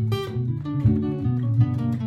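Martin GPCPA4 acoustic guitar: a looped strummed part in D with sustained low notes, and improvised single-note lead lines plucked over it.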